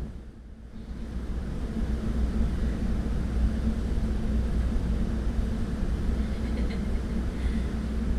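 Steady low rumble with a faint hum, dipping briefly about half a second in.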